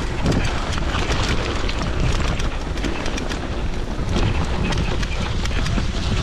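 Wind buffeting the microphone over a steady rumbling, rushing noise, with scattered crackles throughout.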